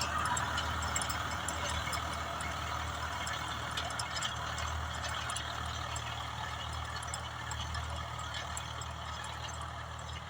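Swaraj 744FE tractor's three-cylinder diesel engine running steadily while working a rotavator, a low engine hum under a broad rattling hiss, growing slightly fainter toward the end.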